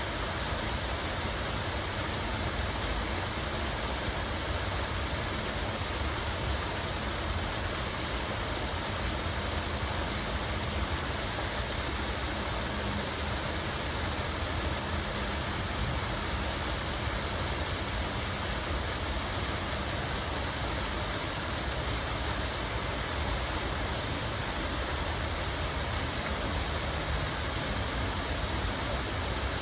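Steady rushing of running water, an even, unbroken wash of sound with no distinct splashes or pauses.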